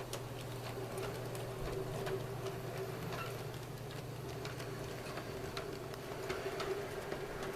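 Battery-powered Sesame Street toy train running on its track: a steady small-motor hum with light, irregular clicks.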